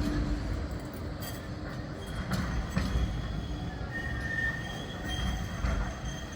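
Tram running on its rails: a steady low rumble with several sharp clicks from the wheels, and a short high wheel squeal about four seconds in.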